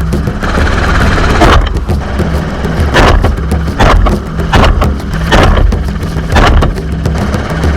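Helicopter running with a steady low drone, with short sharp sounds cutting in roughly every second.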